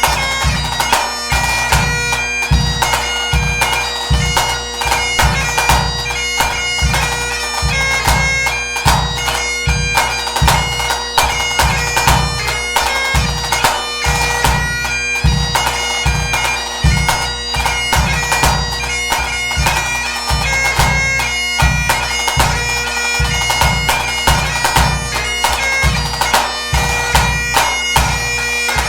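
Great Highland bagpipe playing a tune over its steady drones, with a pipe-band bass drum beating along at about two strokes a second.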